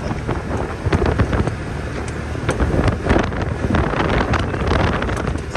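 A vehicle engine running steadily while driving, with wind buffeting the microphone and occasional knocks and rattles.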